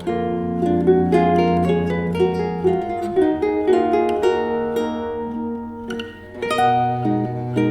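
Acoustic guitar played fingerstyle: a quick melody of plucked notes over ringing low bass notes, with a brief dip in the playing a little after the middle.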